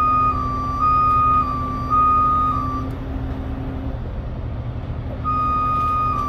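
A truck's two-tone warning alarm alternates between a higher and a slightly lower pitch. It stops about three seconds in and starts again about two seconds later, over the steady low rumble of a running truck engine.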